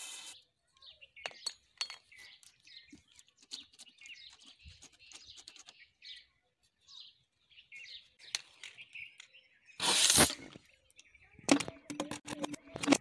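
Small birds chirping faintly and on and off, then a short loud rush of noise about ten seconds in, followed by a burst of clicks and clatter near the end.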